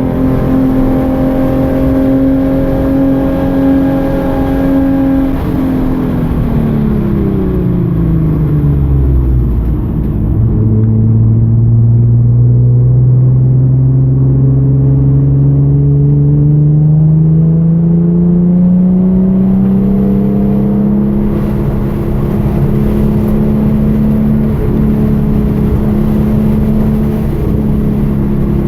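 2013 Hyundai Genesis Coupe's 3.8-litre V6 running at steady revs, then dropping smoothly in pitch for about five seconds as the revs fall. It then climbs slowly under acceleration for about ten seconds and holds steady near the end.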